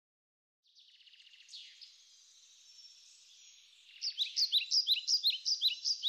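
Birdsong: faint high chirping starts about a second in, then from about four seconds a louder run of quick, repeated high sliding notes, about three or four a second.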